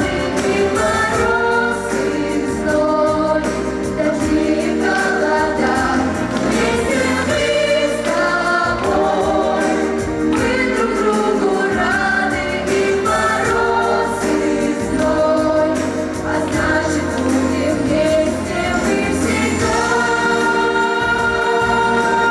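Vocal ensemble singing a wartime song in unison or harmony over instrumental backing music.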